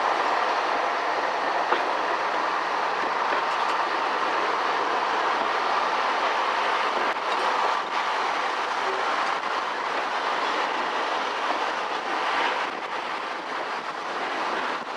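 Heritage railway coach rolling along the track: a steady rumble of wheels on rail with a few faint clicks from the rail joints, heard through an open carriage window. The sound eases slightly near the end.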